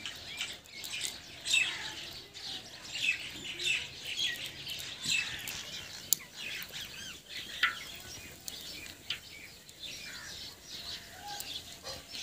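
Small birds chirping, many short high calls overlapping one another, with a single sharp click about six seconds in.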